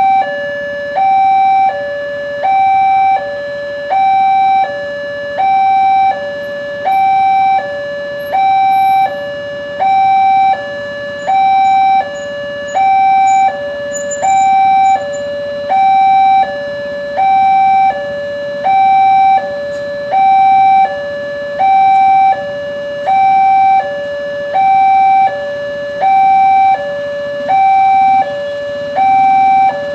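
Indonesian railway level-crossing warning sounder: an electronic two-tone alarm alternating between a louder higher note and a lower note, one high-low cycle about every second and a half, repeating steadily.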